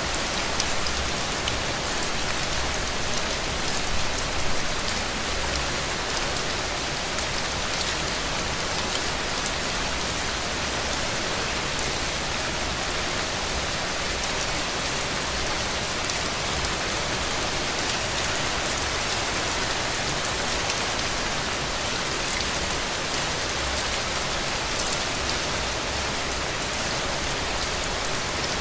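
Heavy rain falling steadily: a dense, even hiss of countless drops, with fine scattered patters on top.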